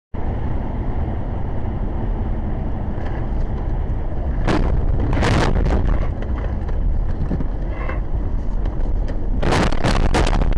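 Car driving, with steady engine and road rumble as picked up by a dash cam, starting abruptly. Several short, loud, noisy bursts break in about four and a half and five and a half seconds in, and a cluster near the end.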